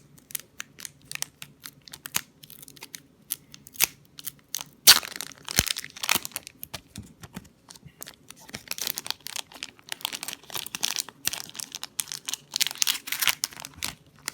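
Foil booster pack wrapper being torn open and crinkled: an irregular run of crackles and rips, the loudest rip about five seconds in.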